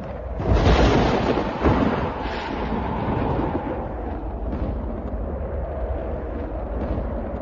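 A thunderclap breaks about half a second in, with a second crack soon after, then rolls on as a long, deep rumble.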